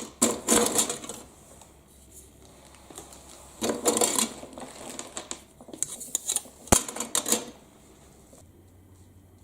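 Balls rattling and clattering down a twisting marble run track in several bursts of rapid clicks, with a few sharp knocks in the last burst; the clatter stops about a second before the end.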